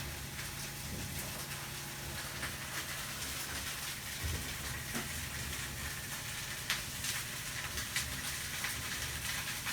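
Steady background hiss with scattered faint crackling clicks and a low, steady hum underneath.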